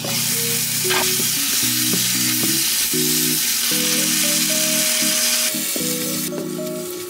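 Dakgalbi, spicy chicken with cabbage and vegetables, sizzling in a frying pan as it is stir-fried with a spatula. The sizzle drops off about six seconds in. Light background music plays underneath.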